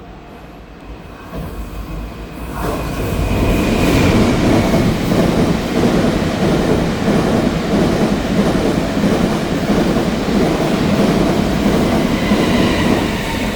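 Taiwan Railway E1000 push-pull Tze-Chiang express train passing through at speed. The noise swells suddenly about two and a half seconds in as the train arrives, then holds as a loud, steady rush of wheels on rail with some clickety-clack, easing a little near the end.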